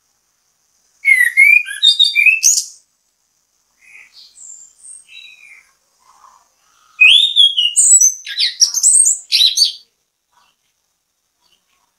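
Chestnut-capped thrush (anis kembang) singing: two loud bursts of rapid, varied whistled notes that glide up and down, about a second in and again about seven seconds in, with a few quieter notes between them.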